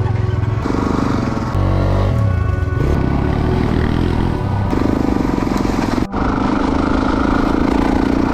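Dirt-bike engines running and revving in a string of short, abruptly cut segments, with music underneath.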